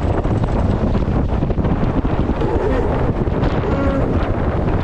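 Loud, steady wind buffeting the onboard microphone of an Extreme 40 racing catamaran under sail, with the rush of water along the hulls beneath it.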